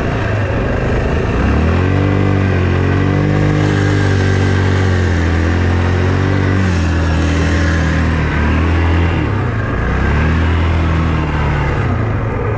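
A vehicle engine running under load, its pitch rising and falling repeatedly as it is revved up and eased off while driving.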